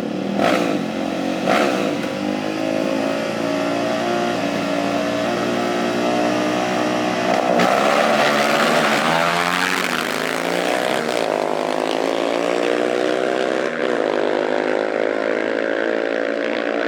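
A small racing vehicle's engine accelerating hard, with its pitch climbing, dropping back and climbing again several times. There are two sharp clicks in the first couple of seconds.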